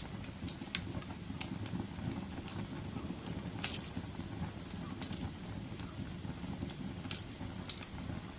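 Wood fire crackling: irregular sharp snaps and pops, roughly one a second, the loudest about three and a half seconds in, over a steady low rumble.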